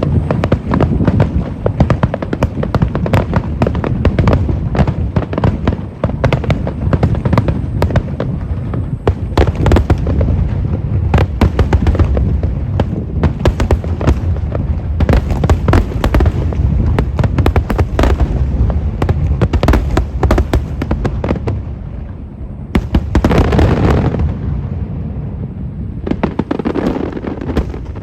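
Fireworks barrage: aerial shells bursting in rapid succession, a dense stream of sharp cracks over a continuous deep rumble of booms and echoes.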